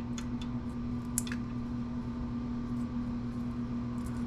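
Steady electrical hum with a few light clicks and taps, mostly about a second in, as circuit boards and small parts are handled.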